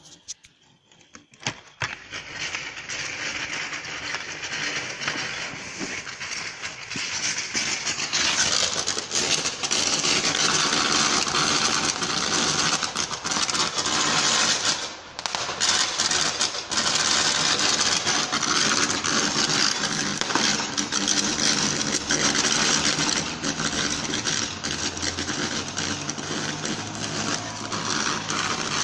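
A broken high-voltage power line arcing and sparking: a loud, continuous crackling buzz that starts about two seconds in, with a brief dip about halfway through.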